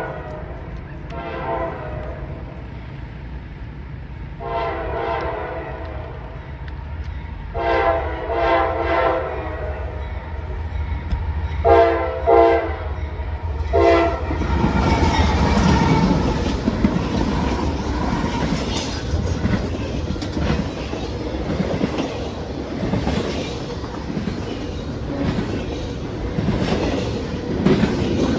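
Norfolk Southern freight locomotive sounding its horn: several blasts, two long ones in the middle and short ones near the end of the sounding. About halfway through, the horn stops and the train passes close by, a steady loud rumble of diesel engine and wheels clicking over the rail joints.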